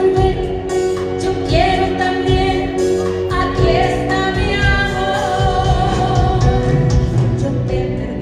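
Live band music with singing: a sustained sung melody with sliding notes over band accompaniment and a pulsing bass.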